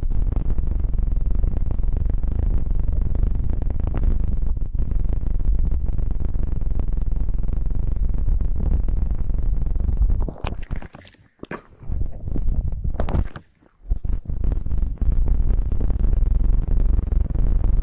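Ear-cupping ASMR: hands pressing, pinching and rubbing over a microphone's ears, making a dense, muffled rumble. Twice, past the middle, the rumble briefly drops away and sharper rubbing sounds come through.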